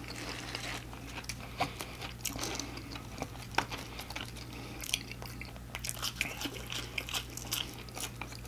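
Close-up chewing and crunching of crispy fried food, with irregular crisp crunches and small wet mouth clicks throughout.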